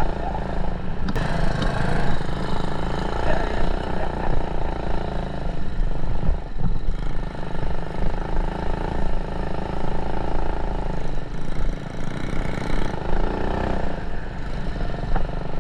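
Mini bike's small single-cylinder engine running steadily under way.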